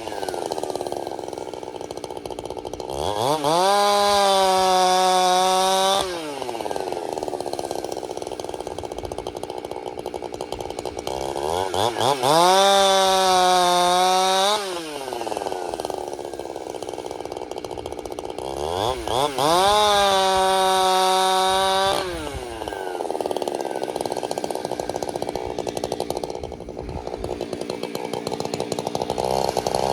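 Husqvarna 372XP chainsaw bucking a dead pine log into firewood rounds. It revs to full throttle for three cuts of about three seconds each, dropping back to idle between them, and revs up again for a fourth cut at the very end.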